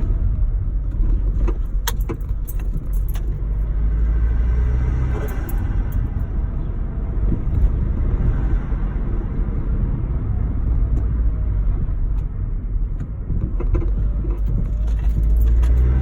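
Turbocharged Vauxhall Zafira engine running with a steady low rumble, with a few light clicks and rattles about two to three seconds in.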